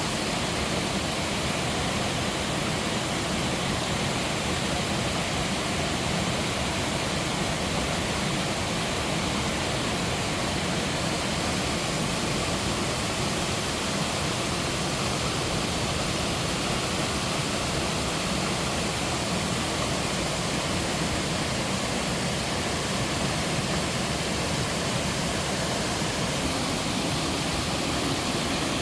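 Tiered mountain-gorge waterfall pouring over rock: a steady, unbroken rush of falling water.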